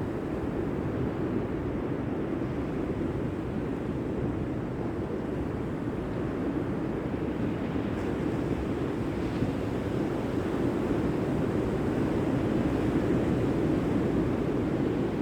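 Steady rushing noise of sea surf with wind.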